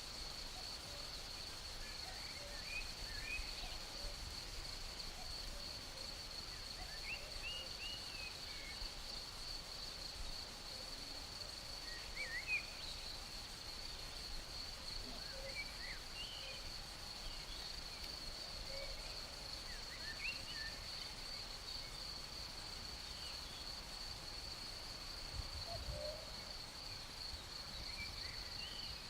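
Crickets chirping in a steady high-pitched pulsing trill, with scattered short bird chirps over it and a faint low breeze.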